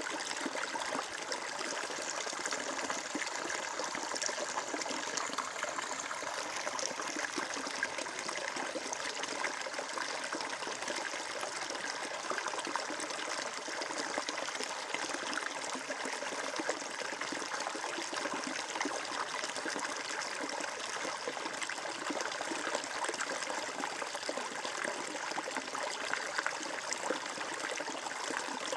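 Flowing water running steadily, a continuous trickling and splashing with no pause or change.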